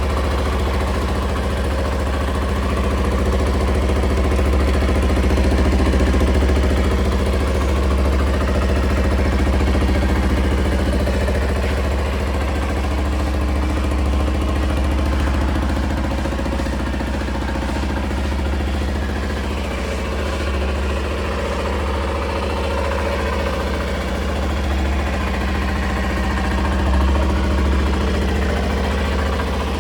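Honda Little Cub's 50 cc air-cooled four-stroke single idling steadily, with only slight swells in loudness.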